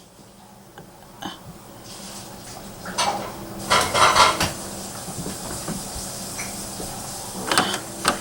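Intermittent clinking and clattering, with the loudest bursts about three and four seconds in and again near the end.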